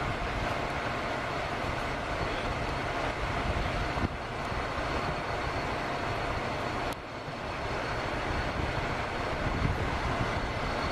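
Steady rumble and hiss of idling vehicle engines, heard from inside a parked car, with a faint steady tone; a sharp click about four seconds in and a brief dip about seven seconds in.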